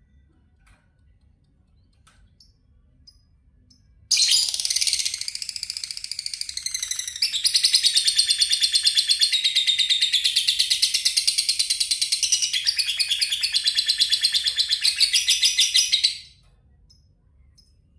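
Lovebird singing a long, fast 'ngetik' trill of rapidly repeated high ticking notes, starting about four seconds in and cutting off suddenly some twelve seconds later. A few faint short chirps come before and after it.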